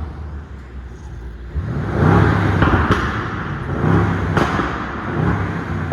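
Mercedes-AMG S63 coupe's twin-turbo V8 exhaust being revved in repeated swells about every two seconds, with a couple of sharp cracks from the exhaust between the revs.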